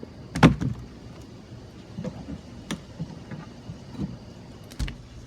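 A few irregular knocks and clacks, as of tools or building materials being handled. The loudest comes about half a second in.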